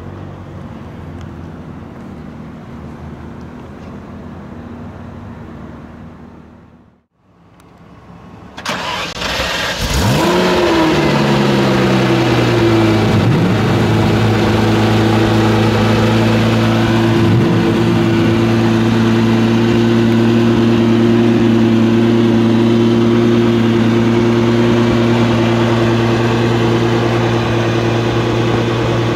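Ferrari Testarossa's 4.9-litre flat-12 engine: a steady idle that fades away, then the engine started, catching about ten seconds in with a quick rev flare and settling over a couple of seconds into a loud, steady idle.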